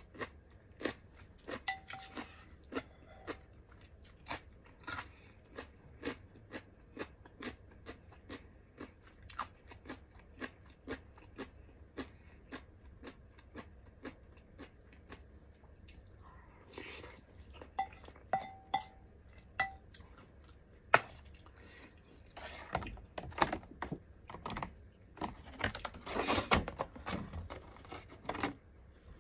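Close-miked mukbang eating sounds: chewing seaweed soup, rice and braised tofu, a steady run of short wet mouth clicks. Over the last several seconds the sounds get louder and denser, with a utensil clinking and scraping in a plastic food container.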